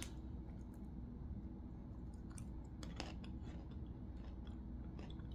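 A person chewing crunchy Mexican street corn pretzel sticks, with faint, scattered crunches and clicks, the sharpest a little over two seconds in and again about three seconds in.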